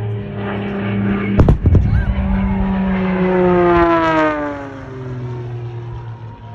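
Airshow pyrotechnic fire explosion of gasoline and mining explosive: a sharp blast about a second and a half in. A stunt plane's engine passes at the same time, its pitch falling steadily as it flies by, then fading.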